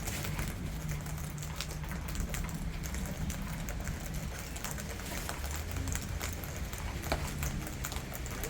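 Rain falling, with many scattered sharp drip-like ticks over a steady hiss and a low rumble.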